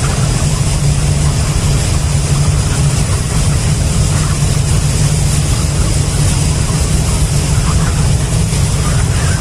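A steady, loud low mechanical drone with a constant hiss above it, unchanging throughout.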